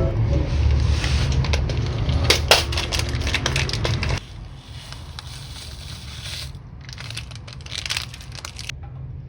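Wood fire crackling and popping in a small steel fire pit, with many irregular snaps. Louder for about the first four seconds, then quieter after an abrupt drop.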